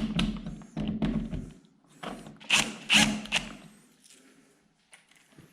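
A series of knocks, thunks and clicks from parts and tools being handled, loudest a little past the middle.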